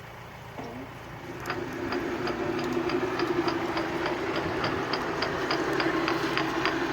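Water-powered drive mechanism of a 1989 Odra hose-reel irrigator running. About a second and a half in it gets louder: a steady hum with a regular click about four times a second.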